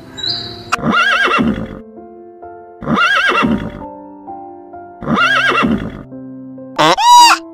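Horse whinnying three times, each call about a second long, rising and falling in pitch, over background music with sustained notes. Near the end a louder, higher bleating call begins.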